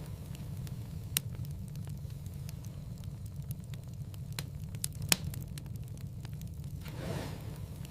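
Wood fire burning in a fireplace: a steady low rumble of flame with scattered sharp crackles and pops, the loudest about five seconds in, and a brief soft rush of flame near the end.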